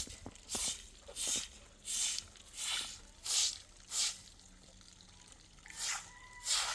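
Footsteps crunching through snow at an even walking pace, about three steps every two seconds. They pause about four seconds in, then pick up again near the end.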